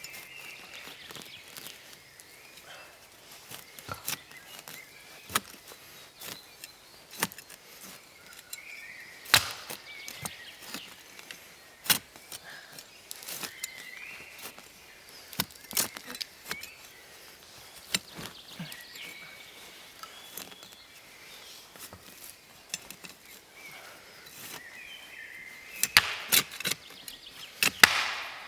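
A hand tool striking repeatedly: irregular sharp knocks every second or two, coming thicker near the end, as a fire pit is dug and wood is worked.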